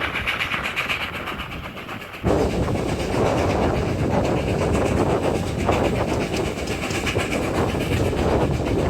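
Steam train hauled by GWR Manor class 4-6-0 No. 7828 Odney Manor running at speed, with a fast, even beat. About two seconds in, the sound jumps abruptly louder and rougher.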